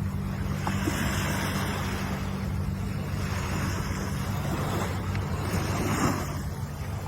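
Ocean waves washing, a steady rush of noise that swells and eases, over a steady low hum.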